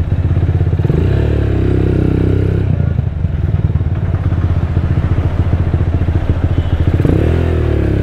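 Rusi Diablo motorcycle running through its custom-made Orion muffler, a steady, deep exhaust note without crackling. The engine speed rises and falls about a second in and again near the end.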